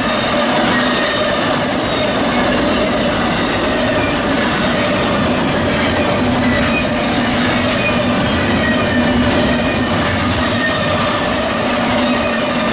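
BNSF freight train rolling past, a loud steady rush of wheels on rail with a few faint, steady ringing tones over it.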